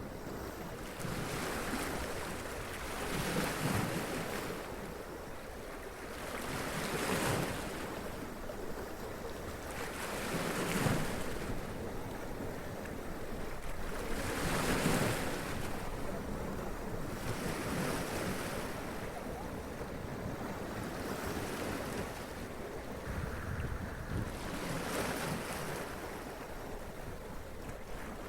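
Sea waves running up the rocks and splashing, swelling and falling back in repeated surges every few seconds.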